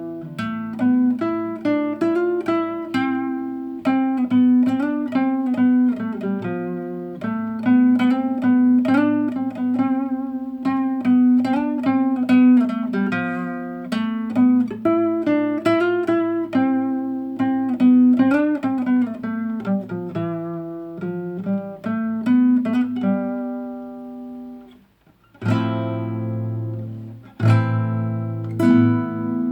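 Nylon-string classical guitar playing a fingerpicked melody over a bass line. Near the end it stops briefly, then two full strummed chords are struck and left to ring.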